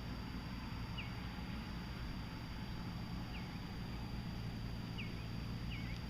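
A small bird chirping four short, sharp calls over a steady low rumble of outdoor background noise.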